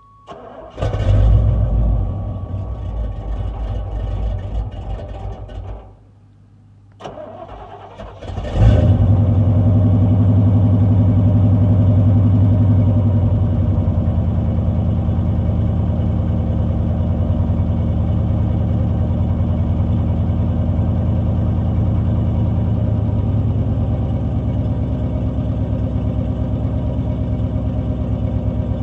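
Chevrolet C30's 350 small-block V8 being cold-started: the starter cranks for about five seconds without the engine catching, stops, then cranks again. About eight and a half seconds in the engine fires with a rev and runs at a fast cold idle, then settles to a steady, slightly lower idle.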